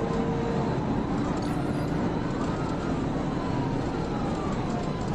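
Police cruiser at pursuit speed: steady road and wind noise, with a siren slowly rising and falling over it.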